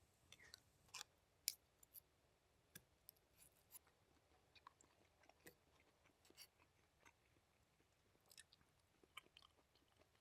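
Faint, irregular chewing and crunching of a person eating a campfire meal of sausages and baked beans, with small clicks scattered throughout.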